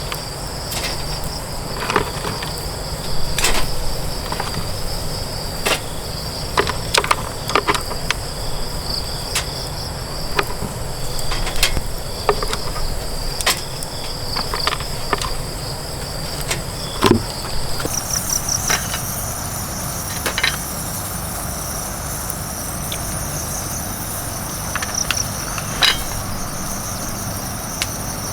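A steady, high insect trill with scattered light knocks and clicks. About two-thirds of the way in, the trill jumps higher and starts to pulse.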